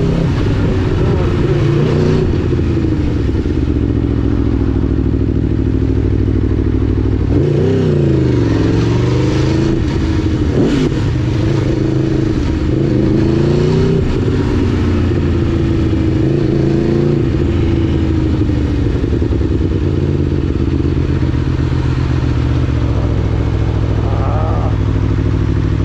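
2011 Aprilia Tuono V4 1000's V4 engine running under way, its pitch rising and falling with the throttle. There is a quick rev about eight seconds in.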